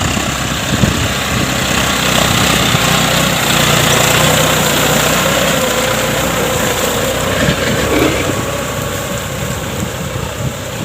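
John Deere 5050D turbocharged diesel tractor engine running steadily while plowing, loudest in the middle and easing off toward the end.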